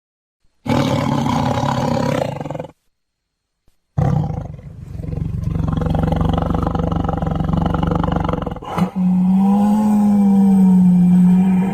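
A sequence of separate roar sound effects, each cut in and out abruptly with dead silence between. A short roar comes about a second in, then a long loud roar from about four seconds in that turns into a steady held pitch near the end.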